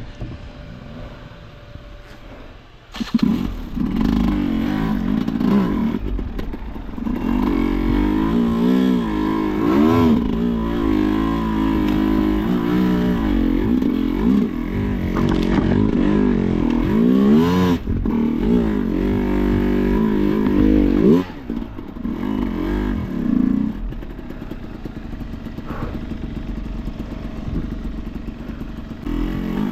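Enduro dirt-bike engine revving hard and unevenly, its pitch rising and falling again and again, starting about three seconds in. Near the end it drops back to a lower, steadier running, then picks up again at the very end.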